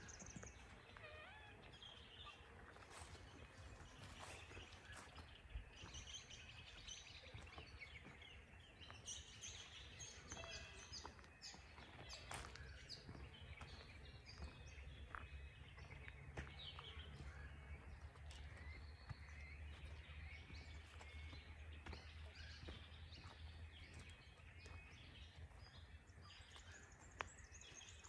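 Wild birds chirping and calling faintly, many short repeated calls, over a low steady rumble.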